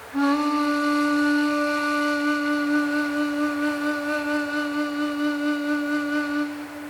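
Ambient music: a single long, low flute-like woodwind note held with a slight waver, fading out near the end.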